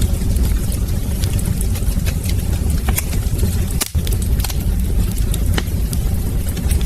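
Wood fire in a fireplace crackling, with frequent sharp pops and snaps over a steady low rumble of the flames. The sound drops out for a split second about four seconds in.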